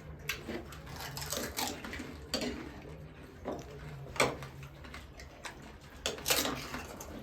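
Dishes and utensils clinking and clicking at uneven intervals, with a few sharper knocks, over a low steady hum.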